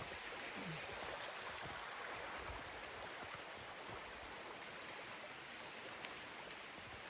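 Steady rain falling, an even soft hiss with a few single drops ticking.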